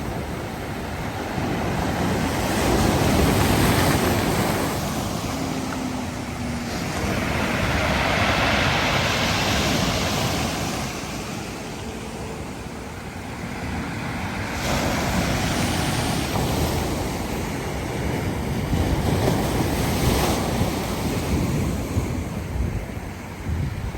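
Black Sea waves breaking on the shore and washing back, swelling and ebbing in slow surges several seconds apart, with wind buffeting the microphone.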